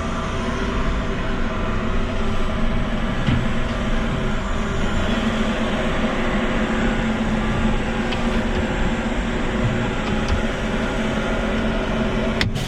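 Dump truck's engine running steadily with a rumble of the truck moving, and a single sharp click near the end.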